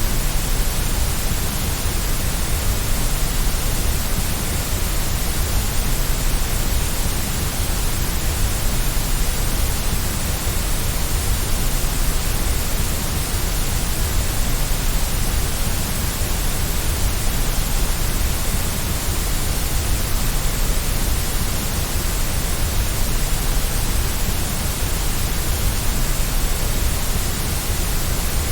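Steady white noise for lulling a baby to sleep: an even, unchanging hiss with a low rumble underneath.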